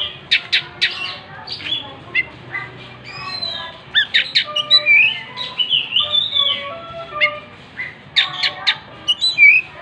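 Oriental magpie-robin (kacer) singing: a fast run of varied whistled notes that rise and fall, broken by harsh scratchy chips near the start and again near the end.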